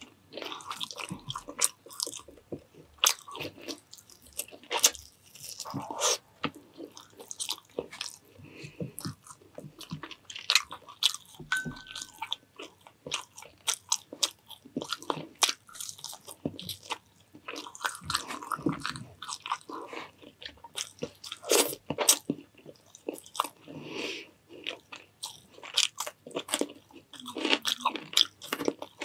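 A person chewing and eating a mouthful of food close to the microphone: wet mouth smacks and many sharp clicks at an irregular pace.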